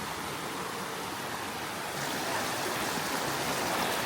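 Steady rush of flowing creek water, growing a little louder about two seconds in.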